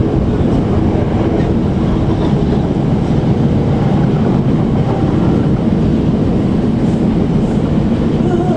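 Steady running noise inside a Class 455 electric multiple unit moving at speed: a low rumble of the wheels on the rails, heard through the carriage body.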